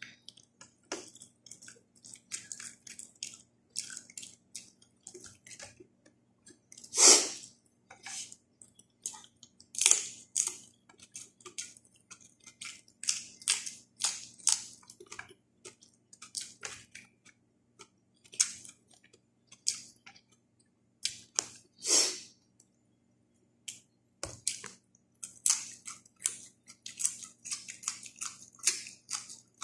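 Close-up mouth sounds of someone eating with their fingers: irregular wet chewing clicks and lip smacks, with two louder smacks about seven and twenty-two seconds in.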